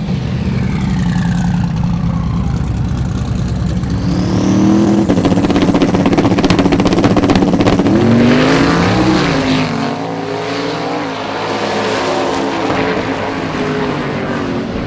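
Drag race car engine running and revving, loudest about five to eight seconds in, with a sweep up and down in pitch around eight seconds.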